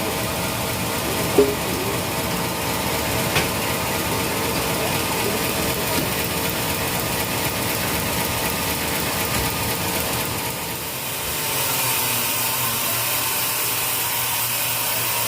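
Sawmill machinery running steadily with a mechanical clatter and hum. There are a few sharp knocks in the first few seconds, and about eleven seconds in the sound turns brighter and hissier.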